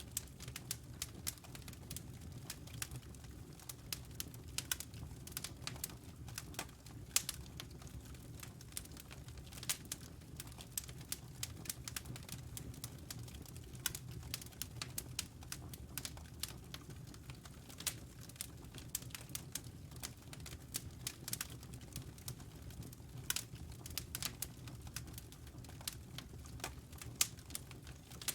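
Wood fire in a fireplace crackling, with irregular sharp snaps and pops of the burning logs over a low, steady rumble.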